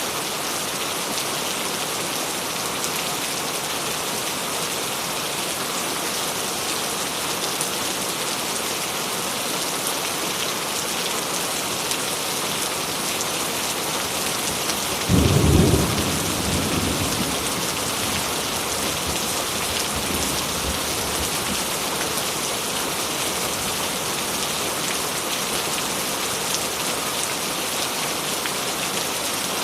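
Steady heavy rain, with one clap of thunder about halfway through that rumbles away over a few seconds.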